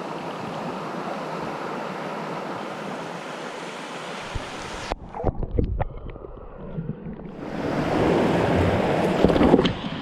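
Creek water rushing over rocks, a steady hiss. About five seconds in it cuts out abruptly, leaving a few knocks and bumps, then the rushing water comes back louder.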